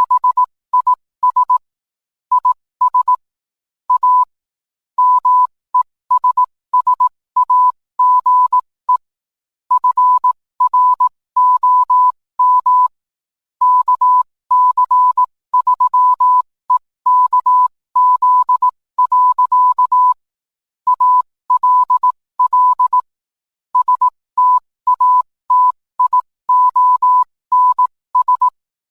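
Morse code sent as a single clean beep tone, keyed on and off in short and long beeps with pauses between groups.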